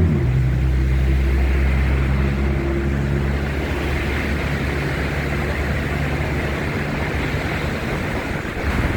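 A large engine running steadily close by, a low hum with several held tones, which fades out near the end.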